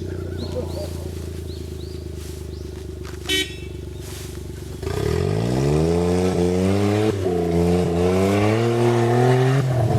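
Suzuki Jimny JA11 engine idling steadily, then revved hard about five seconds in and held at high revs, wavering and dipping briefly, before the revs start to fall near the end. A brief high-pitched blip sounds about three seconds in.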